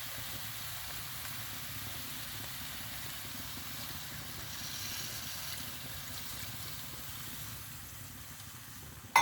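Spice-and-onion gravy simmering in a pan on the stove just after a tumbler of water has gone in, a steady low rumble with a brief faint hiss about five seconds in. A sharp clink of a utensil at the very end.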